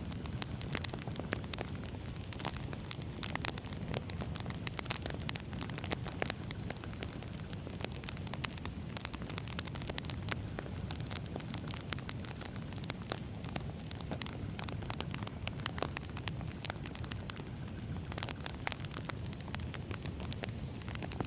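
Firewood burning: a steady low rumble of flames with many irregular sharp crackles and pops.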